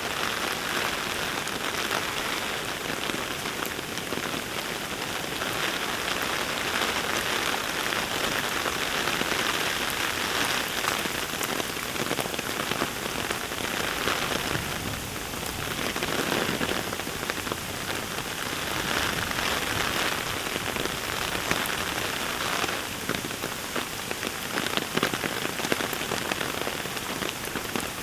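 Heavy rain falling steadily, swelling and easing every few seconds, with sharper drips pattering near the end.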